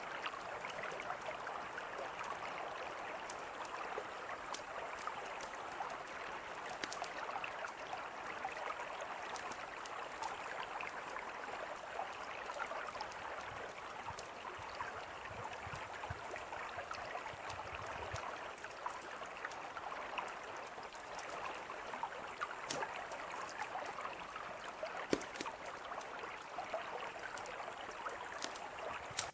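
A mountain river flowing steadily, with the sharp pops and crackles of a campfire scattered through it; one pop near the end is louder than the rest.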